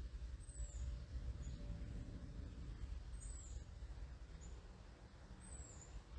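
A small songbird giving thin, very high downslurred calls about every two and a half seconds, with short high notes in between, over a steady low rumble of wind or a distant plane.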